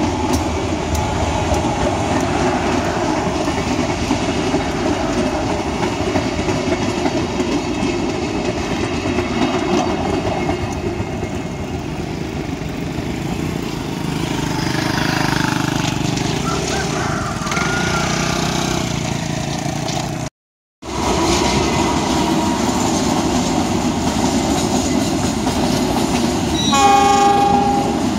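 Passenger train cars rolling past with a steady rumble and clatter of wheels on rail. A brief silent gap falls about two-thirds of the way in. Near the end, a train hauled by a CC201 diesel-electric locomotive approaches and sounds one short horn blast.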